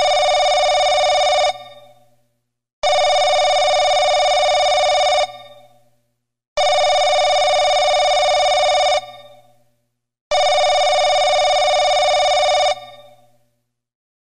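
Landline telephone bell ringing in a repeating pattern: four bursts of about two and a half seconds each, with short pauses between them. Each burst dies away over about a second as the ringing stops.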